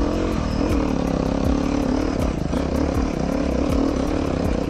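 Beta 390 RR-S dual-sport motorcycle's single-cylinder four-stroke engine under way, its revs rising and falling repeatedly with the throttle as it rides off on a trail.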